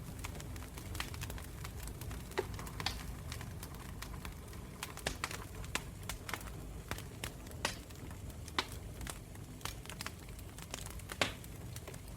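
Wood campfire crackling: irregular sharp pops and snaps of burning wood over a low steady rumble of the flames, with one louder pop near the end.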